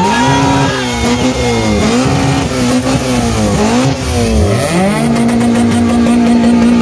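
Car engine being revved hard, its pitch climbing and dropping several times, then held at steady high revs from about five seconds in.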